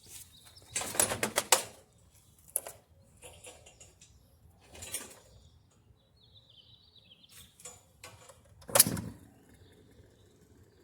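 Old Whirlpool top-load washer drive motor, switched on while sitting loose out of the machine, jolting and clattering in short bursts instead of running up to speed: it keeps jumping and will not reach spin speed. The fault is inside the motor, which the owner takes for a damaged winding, since cleaned centrifugal switch contacts did not cure it.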